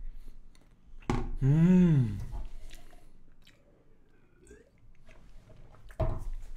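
A man chewing a mouthful of chocolate cake, with a hummed "mmm" of enjoyment about a second in that rises and then falls in pitch.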